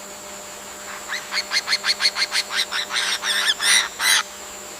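A bird calling a rapid series of about a dozen short, harsh notes, about five a second, growing louder over some three seconds and stopping abruptly.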